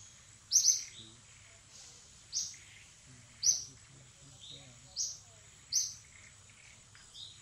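A bird repeating a short, high, sharp chirp about six times, roughly once a second.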